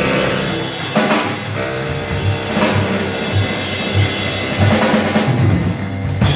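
Live jazz band playing, the drum kit to the fore over a steady low bass line, with cymbal crashes about a second in and again right at the end.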